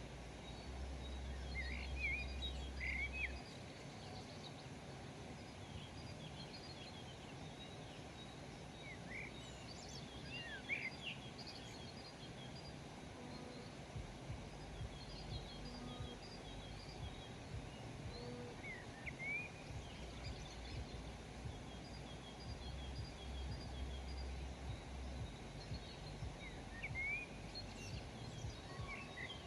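Birds chirping outdoors: short rising call notes in small bursts every several seconds, with fainter high twittering between them, over a steady background hiss and low rumble.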